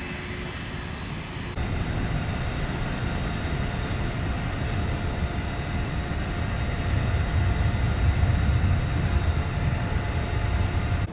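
Jet airliner passing overhead: a steady engine rumble with a low roar that grows louder through the middle and eases near the end.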